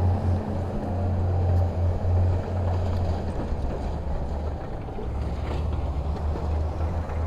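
Heavy diesel engine of earthmoving equipment running with a steady low drone that wavers slightly in level.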